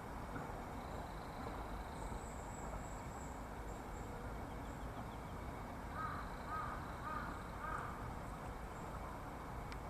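A bird calls four times in quick succession, short harsh notes about half a second apart, over a steady outdoor background hiss.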